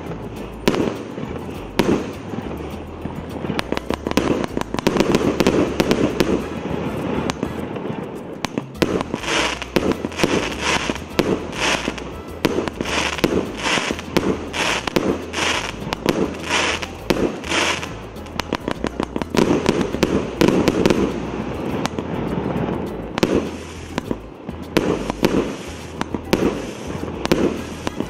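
A multi-shot consumer fireworks cake (C211, 204 shots) firing continuously, with launches and aerial bursts overlapping. Through the middle comes a run of sharper, evenly spaced bangs about two a second.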